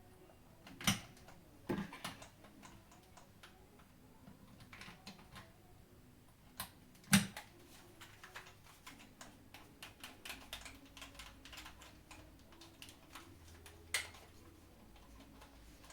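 Small hard-plastic clicks and taps from a PS5 DualSense controller being handled, with a few louder knocks and a quick run of light clicks partway through.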